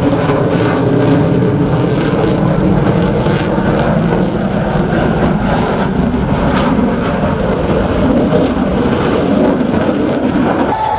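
Loud, steady jet noise from Blue Angels F/A-18 Super Hornets in flight, with a ragged crackle running through it.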